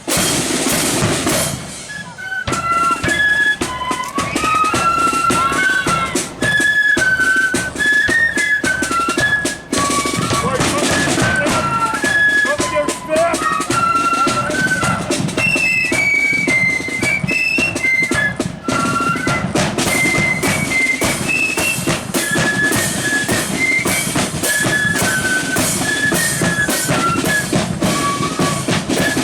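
Marching flute band playing a tune, the flutes carrying a high melody over bass drum and snare drums. Drums play alone for the first couple of seconds before the flutes come in.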